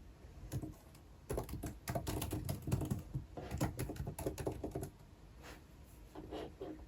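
Typing on a computer keyboard in quick runs of keystrokes, with only a couple of keystrokes in the first second and a few scattered ones after about five seconds.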